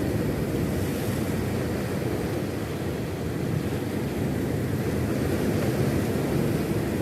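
Steady wind buffeting the microphone over the rush of water from a small fishing boat on the open sea, a constant low rumble with no breaks.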